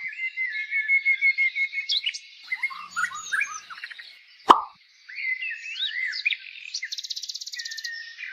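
Birds chirping and singing in many short, rising and falling calls, with a fast trill near the end. A single sharp plop cuts in about halfway through.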